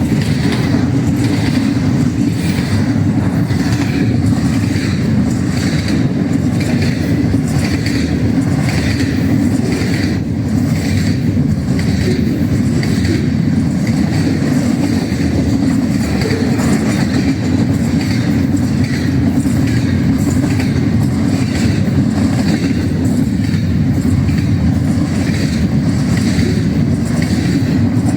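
Ferromex freight train passing at speed: a steady loud rumble of rolling wagons with regular clacking of wheels over the rail joints.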